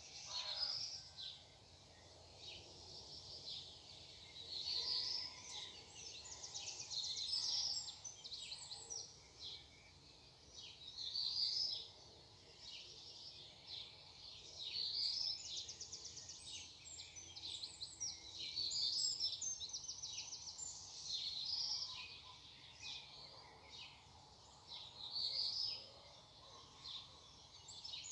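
Songbirds singing: high phrases repeated every few seconds, some with rising notes and others with fast trills, over a faint background hum.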